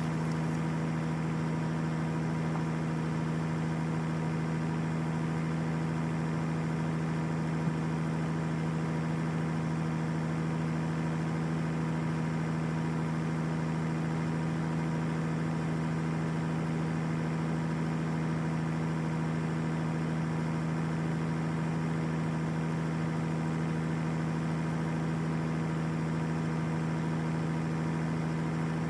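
A vehicle engine running at a steady idle, an even unchanging hum with no revving.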